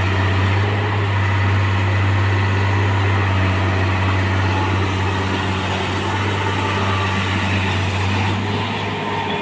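Engine of a railway track-changing machine running steadily with a deep, even drone that eases slightly near the end.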